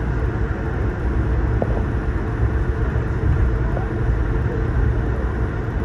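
Steady low rumble inside the cabin of an Airbus A220-300 rolling on the ground just after landing.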